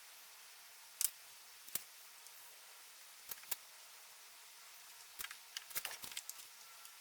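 Scattered sharp clicks and light knocks of small hard objects being handled, a few single ones and then a quick cluster near the end.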